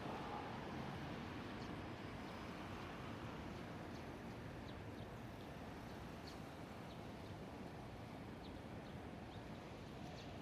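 Short, high bird calls repeating every second or two in a treetop, from a bird the uploader takes for a dusky thrush, over a steady background hiss.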